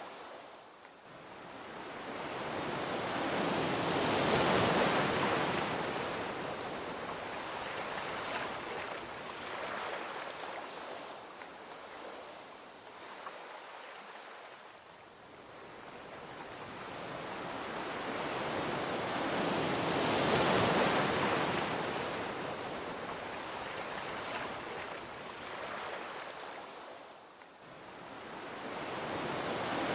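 Gentle ocean surf washing onto a beach: the hiss of each wave swells and then fades slowly. Two waves peak about sixteen seconds apart, and a third builds near the end.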